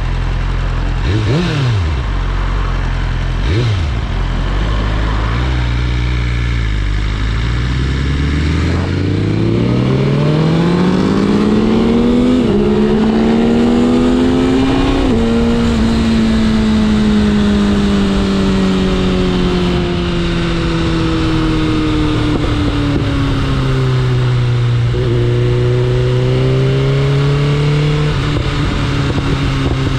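BMW S1000RR's inline-four engine. It is blipped sharply twice, then pulls away with its pitch climbing for several seconds and settling into a slow fall as the throttle eases. It rises again near the end.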